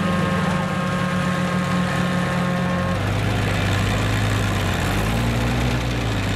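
Farm tractor engine running at a tractor pull. Its note drops about three seconds in and climbs again from about five seconds. A steady high whine sits over it until the drop.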